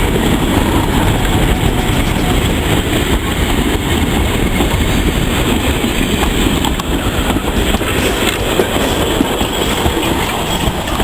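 A train running along the track: a steady, loud rumble with the clickety-clack of wheels over the rail joints.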